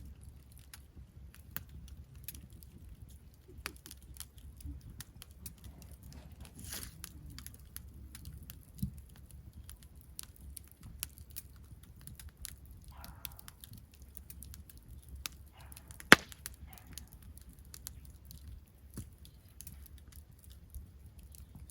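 Campfire crackling: burning wood gives irregular sharp pops and snaps, with one loud crack about sixteen seconds in, over a faint low rumble.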